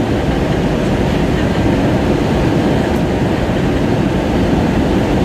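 Airbus A320 cabin noise: a loud, steady low rumble of engines and airflow heard from inside the passenger cabin.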